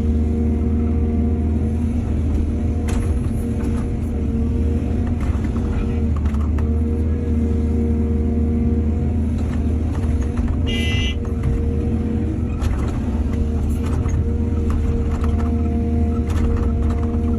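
Excavator's diesel engine running steadily at an even pitch, with scattered knocks and clanks and a brief high squeal about eleven seconds in.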